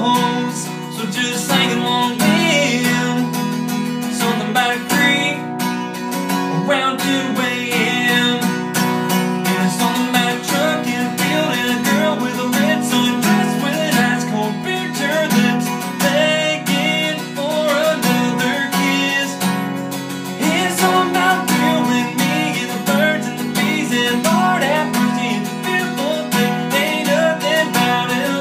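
Strummed acoustic guitar playing a country song, with no clear words sung.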